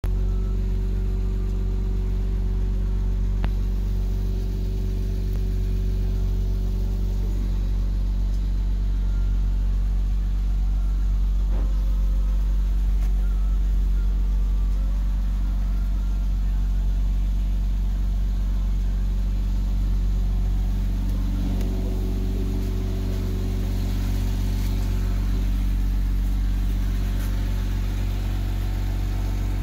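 2007 Porsche Boxster's flat-six engine idling steadily, heard from inside the cabin.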